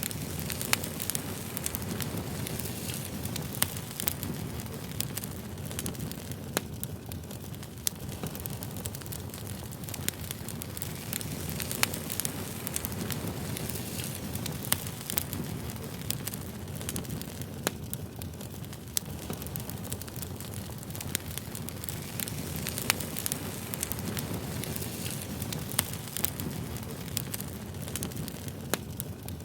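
Campfire crackling: a steady low rumble of burning wood with frequent sharp, irregular pops and snaps.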